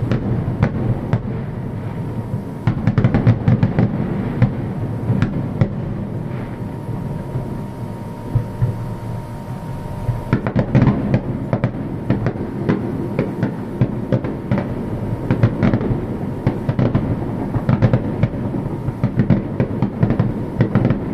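Fireworks going off in a rapid barrage: many overlapping booms and crackles with no pause between them.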